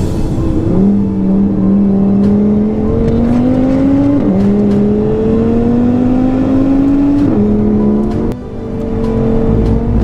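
2018 Audi RS3's turbocharged 2.5-litre five-cylinder engine, running a stage 2 Unitronic tune, heard from inside the cabin accelerating hard on track. Its pitch climbs, then drops with an upshift about four seconds in and again about seven seconds in; the sound dips briefly about eight seconds in, then holds a steady note.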